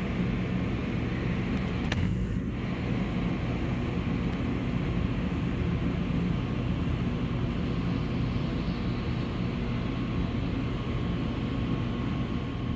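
Military aircraft engine noise: a steady low drone with a faint, steady high whine above it.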